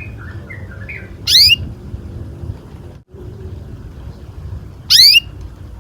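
Domestic canary singing: a run of short chirping notes, then two loud, quick upward-sweeping calls about three and a half seconds apart, over a steady low background rumble.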